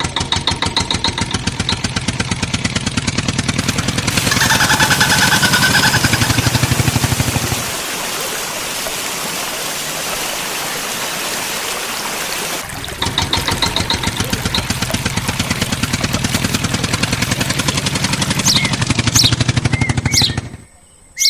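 Tractor engine running with a fast, even chugging beat. A few seconds in, the low chugging drops away for about five seconds, leaving a steady hiss, then returns, and it cuts off just before the end.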